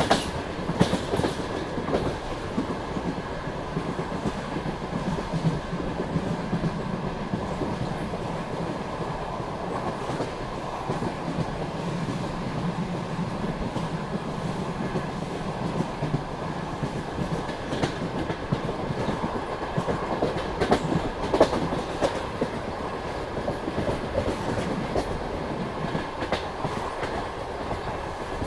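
Wheels of a moving passenger train running on the rails: a steady rumble with scattered clacks of the wheels over the track.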